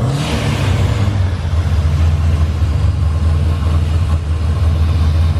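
A vehicle engine running with a loud, deep, steady rumble. A short burst of hissy noise comes right at the start.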